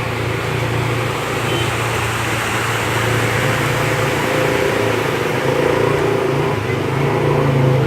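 Steady engine-like hum under a continuous noisy rush, holding level throughout.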